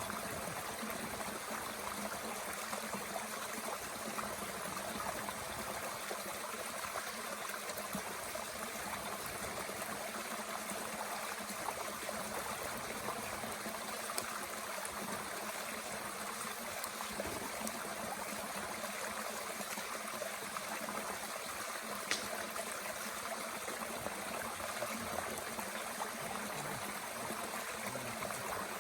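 A mountain stream flowing steadily, with a few faint pops, one plainer about two-thirds of the way in, from a small wood fire burning in a Bush Box stove.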